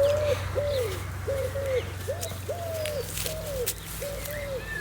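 A pigeon cooing: a run of about nine soft notes that rise and fall, in a steady rhythm.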